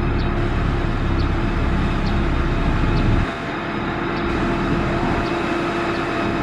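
Heavy diesel construction machine running steadily, with faint short high chirps about once a second. The deep low rumble drops away abruptly a little over halfway through.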